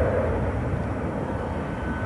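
Airliner engines rumbling steadily, dipping slightly in level.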